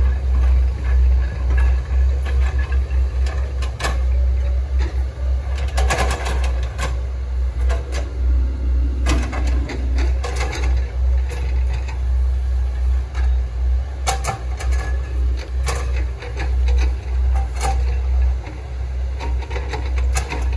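Hitachi ZX110 MF swamp excavator running with a heavy, pulsing rumble, its engine note dipping briefly near the middle. Scattered sharp cracks and knocks come in clusters, as when the machine works an oil palm trunk.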